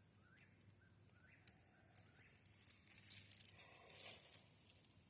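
A bird calling close by, a run of short rising notes about two a second, fading out after the first second and a half. Then faint crinkling and rustling, like packaging being handled.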